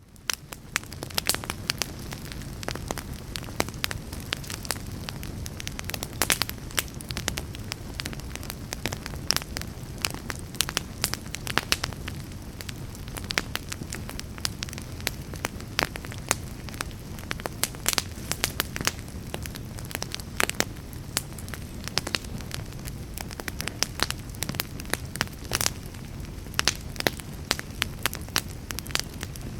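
Wood fire in a fireplace crackling, with many sharp irregular pops and snaps over a steady low rumble of flames. It fades in over the first second.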